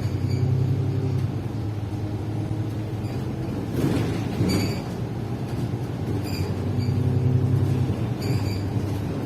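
Running noise of a moving passenger vehicle heard from inside: a steady low rumble with short high squeaks and rattles recurring every second or so.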